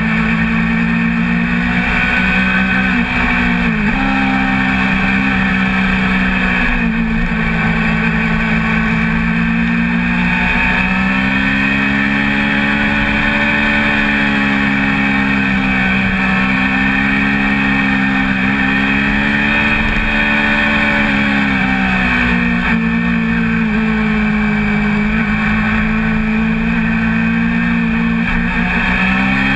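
A 1988 Honda CBR400RR's 400 cc inline-four engine running hard at racing revs. Its pitch dips and climbs smoothly several times as the throttle is worked through the corners.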